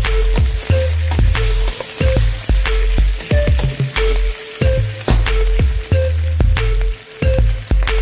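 Chopped onion and pulled turkey sizzling in a pan as they are stirred with a wooden spatula, under background music with a deep bass line, short repeating notes and a steady beat.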